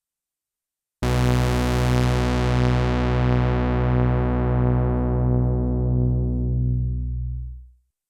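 Sequential analog polysynth playing one low held note about a second in, bright at first, its top end slowly closing down as the filter sweeps shut, with a slow pulsing shimmer, then fading out near the end.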